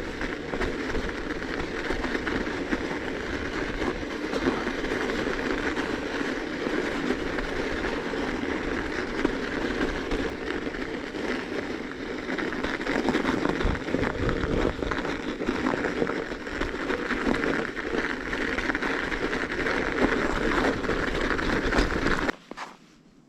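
Bicycle ridden over crusted snow: a steady rumbling, crackling noise of the tyres and bike, which cuts off abruptly near the end.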